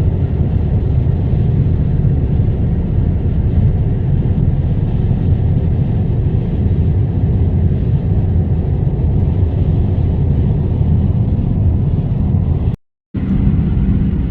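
Steady, loud road and engine noise of a car driving at speed, heard from inside the cabin. It cuts out for an instant near the end and resumes unchanged.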